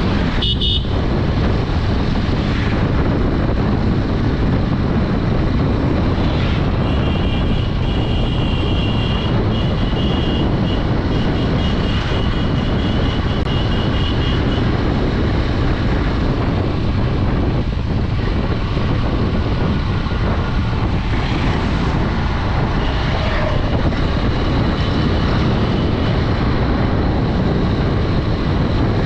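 Honda Dream 110 single-cylinder commuter motorcycle riding at road speed, with its engine and the road noise running steadily. A vehicle horn gives a string of short beeps in the first half, and a few fainter toots come later.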